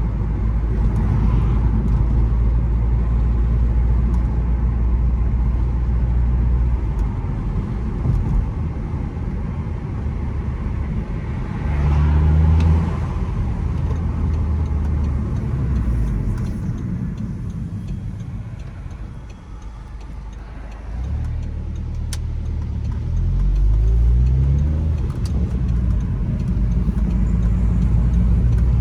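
Audi S3 8P's turbocharged four-cylinder engine running under way, its pitch stepping up and down with gear changes. It eases off and quietens about two-thirds of the way through, then climbs in pitch as the car accelerates again near the end.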